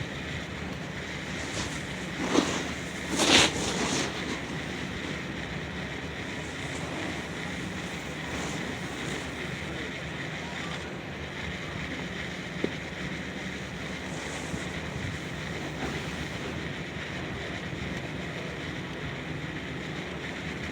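Steady outdoor ambient noise, like wind or distant water, with two brief louder bursts about two and three seconds in.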